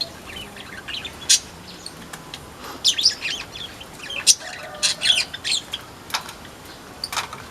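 Weaver birds (manyar) chirping: scattered short, sharp, high calls, some in quick clusters, at irregular intervals.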